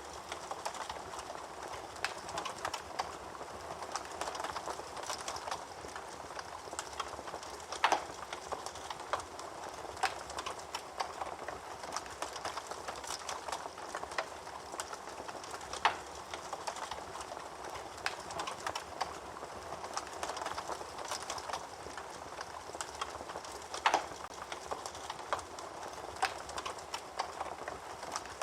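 Wood fire burning in a fireplace, crackling steadily with many small snaps and a louder pop about every eight seconds.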